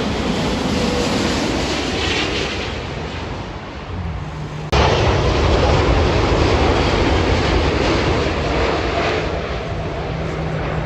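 Jet airliner passing low overhead on final approach, its engines making a loud, steady rushing noise with a low hum under it. The sound jumps suddenly louder about halfway through.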